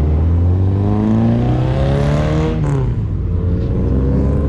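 Car engine revving up, its pitch climbing for about two and a half seconds, then dropping sharply and climbing again: a car accelerating through a gear change.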